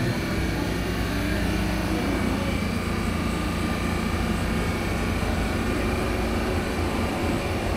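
Athens Metro Line 1 8th-generation electric train alongside the platform, giving a steady hum with a few held whining tones from its onboard electrical equipment.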